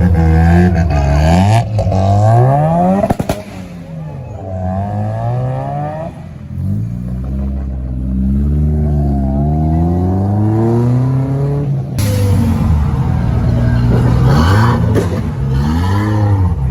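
Modified cars' engines revving and accelerating away one after another, their pitch climbing and dropping again with each gear change. The sound changes abruptly a few times as one car gives way to the next.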